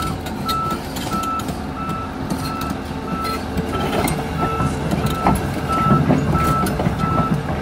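Excavator tracking forward: its travel alarm beeps steadily about three times every two seconds over the running engine, with clanks and rattles from the machine growing louder in the second half.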